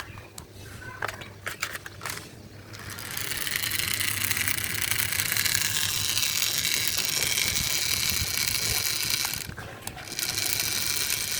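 Clicks of plastic being handled, then a small toy's geared motor starts whirring steadily about three seconds in, drops out briefly near the end and runs again.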